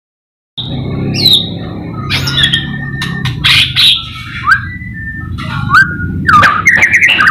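White-rumped shama (murai batu) singing: short whistled notes and slurred phrases mixed with sharp clicks and chatter, over a steady low hum. It starts about half a second in.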